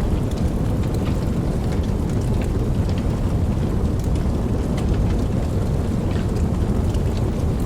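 Steady rain, with a deep, even rumble and scattered individual drops ticking throughout.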